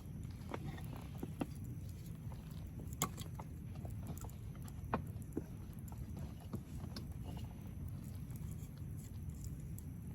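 Wood fire crackling, with sharp pops at irregular intervals over a steady low rumble; the loudest pops come about three and five seconds in.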